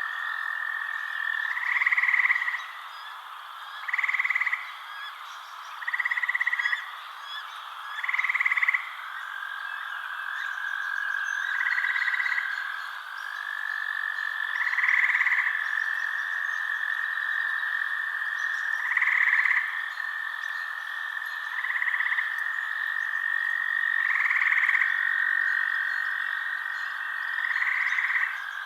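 Night chorus of frogs: a steady high trill runs throughout, with louder, slightly higher calls of under a second repeating about every two seconds.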